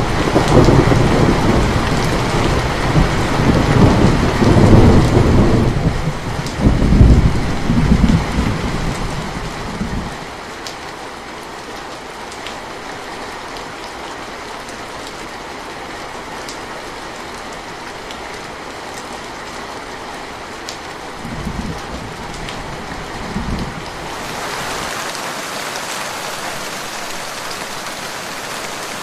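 Steady rainfall with a long roll of thunder that is loudest in the first few seconds and dies away about ten seconds in. Two short, low rumbles of thunder follow a little after twenty seconds, and near the end the rain turns brighter and hissier.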